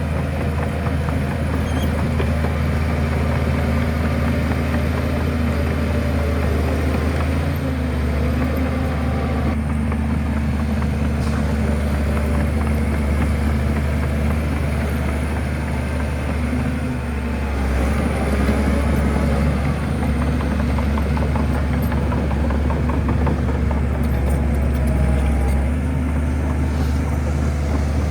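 Heavy diesel engine of a Shantui bulldozer running steadily with a low drone, its pitch shifting slightly about two-thirds of the way through.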